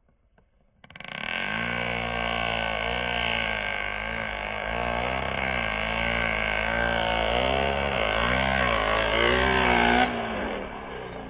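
Large-scale gas RC car's 71cc Taylor big-bore two-stroke engine starting about a second in and revving up and down about once a second as it is driven hard. It drops off near the end.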